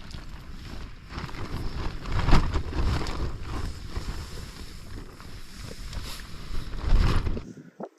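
Strong wind gusting over the microphone, a heavy low rumble with louder gusts about two seconds in and near the end, cutting off suddenly just before the end.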